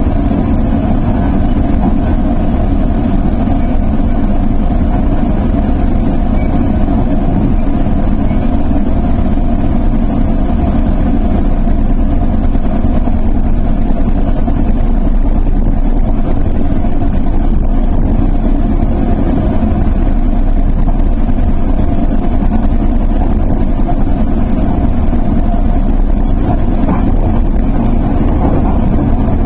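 Sounder commuter train running, heard from on board: a steady, even rumble with a constant hum.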